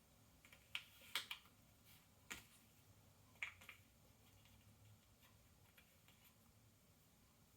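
Cardboard jigsaw puzzle pieces clicking and tapping as they are handled and set into place on a table: a few light, separate clicks, most of them in the first half, then only faint taps.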